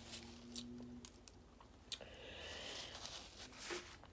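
Faint close-miked chewing and small mouth clicks, with a soft rustle of a paper napkin wiped across the mouth.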